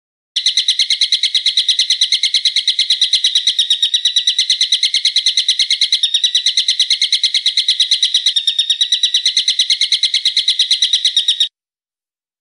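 A bird's call repeated in a fast, even chatter of about eight sharp notes a second, held for about eleven seconds and then cutting off suddenly.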